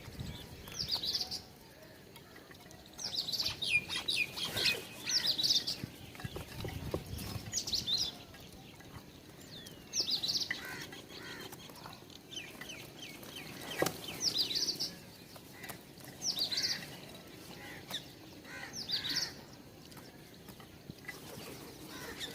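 Small birds at a feeder calling, short high chirping phrases every two or three seconds, with a few faint knocks.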